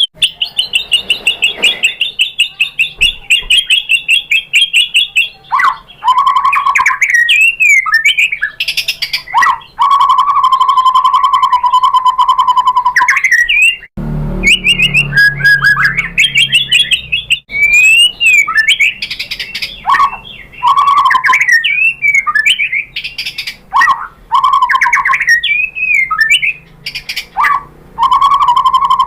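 White-rumped shama (murai batu) singing a loud, varied song of rapid trills, sweeping whistles and short chattering phrases, including a long steady trill about a third of the way through.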